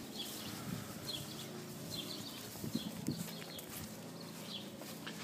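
Short, high bird chirps repeating about once a second over a low steady hum, with a couple of knocks near the middle.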